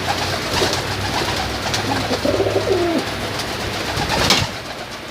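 Domestic pigeons cooing in a loft, with a low, falling coo about two seconds in over a steady background of birds. A short noisy burst comes about four seconds in.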